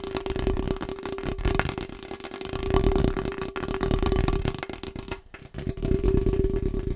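Very fast, aggressive tapping on a household object, a dense stream of taps over a steady ringing note, with a brief break a little past five seconds in.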